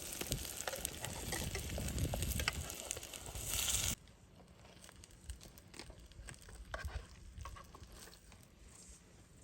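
Food sizzling as it fries in a pan, with scattered clicks of stirring. About four seconds in it cuts off abruptly to a much quieter background with only a few faint clicks.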